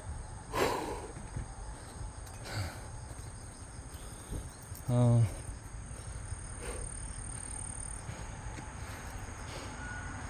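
A steady, high-pitched insect chorus trilling on an evening hillside in late summer. About halfway through, a short, loud, low-pitched buzzing tone cuts in for under half a second.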